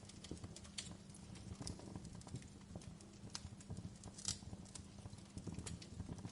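Wood fire crackling in a fireplace: irregular sharp pops and snaps, one louder snap about four seconds in, over a low steady rumble.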